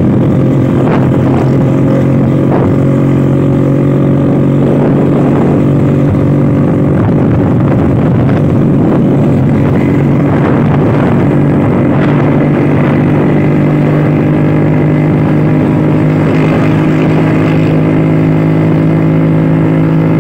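Old Vespa scooter's two-stroke engine running at a steady cruise, its note getting a little higher and stronger in the last few seconds.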